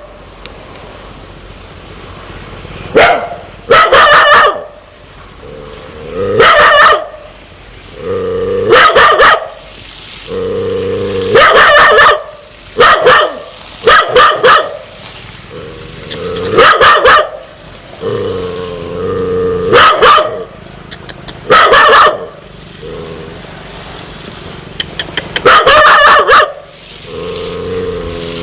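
A dog barking loudly in single barks and quick pairs, about a dozen in all with pauses of one to three seconds between them: the threatening barking of a dog that wants to bite.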